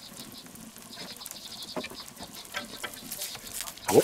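Bacon pancake sizzling and crackling on a hot steel fire plate, with many small spitting clicks. Just before the end, a short, loud scrape as a metal spatula goes onto the plate.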